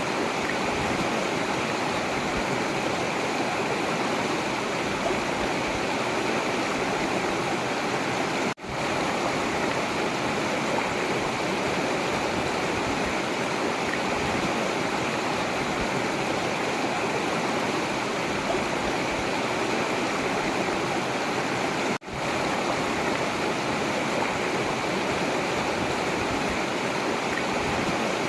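Forest river water flowing steadily, a continuous rushing of water, which cuts out for an instant twice.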